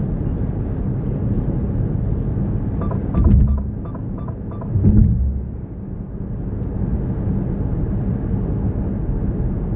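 Car road and engine rumble heard inside the cabin while driving, with two louder low surges about three and five seconds in. A quick run of short beeps sounds around the first surge.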